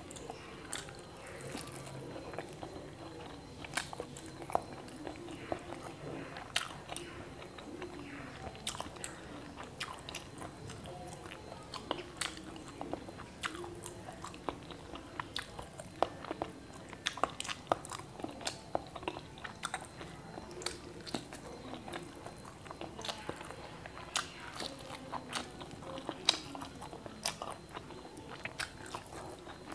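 A person chewing mouthfuls of fried egg dipped in soy sauce, with many short, irregular mouth clicks and lip smacks.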